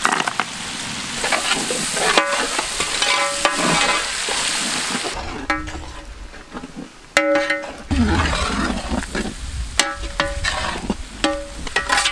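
Sliced onions, green chillies and cashew nuts sizzling in hot oil in a large metal cooking pot, stirred with a long metal ladle. The ladle scrapes the pot several times, giving short squeals over the steady sizzle.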